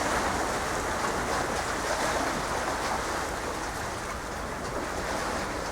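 Steady rushing noise of wind and water, even in level with no distinct events.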